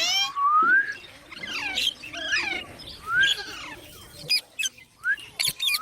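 Baby green parrot chirping and squeaking: a run of short calls that slide up and down in pitch, then a few short sharp notes near the end.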